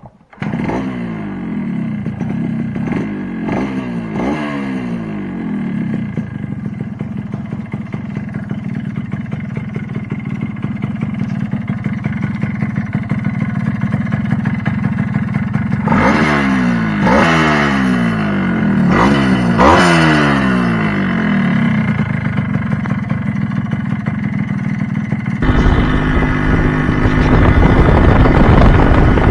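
Yamaha RX-King's two-stroke single-cylinder engine running, with the throttle blipped several times in the first few seconds and again around the middle, then settling back between revs. About 25 seconds in, the sound turns louder and rougher.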